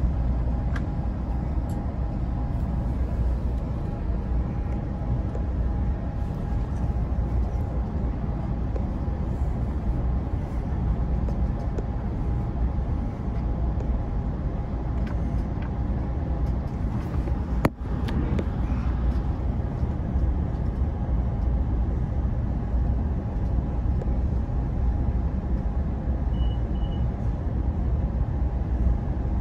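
Steady rumble of a moving Amtrak Pacific Surfliner bi-level passenger car, heard from inside: wheels running on the rails, with a faint steady whine over it. The sound drops out for a moment once, a little past the middle.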